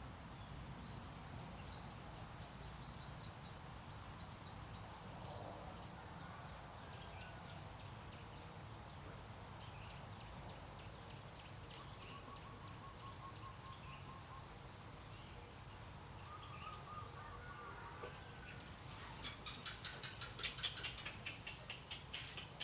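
Faint outdoor background with small birds chirping and trilling now and then. Near the end comes a quick run of crisp clicks, about five a second.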